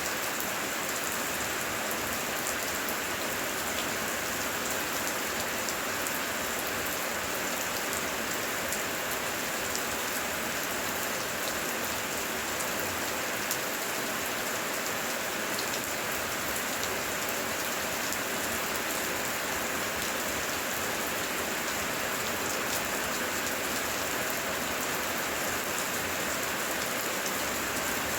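Heavy rain falling steadily, a dense hiss with many small drop ticks on surfaces.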